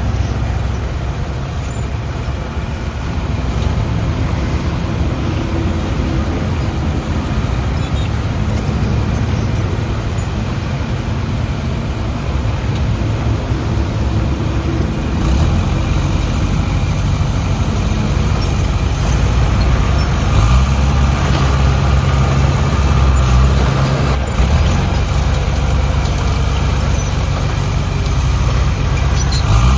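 Heavy diesel earthmoving machinery running steadily, its engine note growing louder and heavier about halfway through as it works under load.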